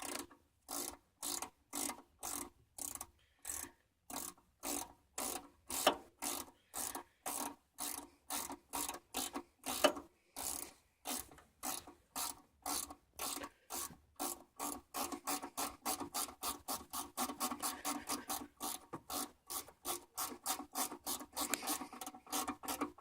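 A 10 mm ratchet wrench rasping in quick back-and-forth strokes as it unscrews the tractor's oil drain valve. It goes at about two strokes a second at first, quickening to three or four a second about halfway through.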